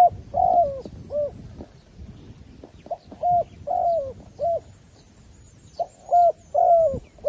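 Zebra dove cooing in three short phrases of staccato, arched coos, each phrase a few notes long and a couple of seconds apart.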